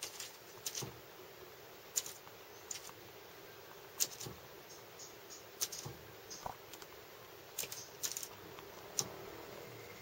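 A small bird pecking and fluttering against a car's side mirror, attacking its own reflection: about ten sharp taps and clicks on the glass and mirror housing at irregular intervals, over a faint steady hum.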